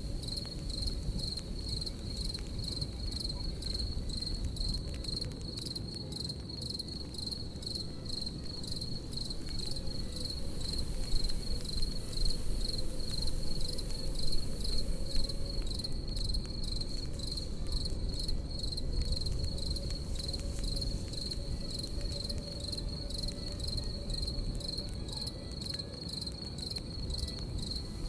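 Crickets chirping in a steady, evenly pulsed high trill over the low rumble and crackle of a campfire, with a few louder crackles near the middle.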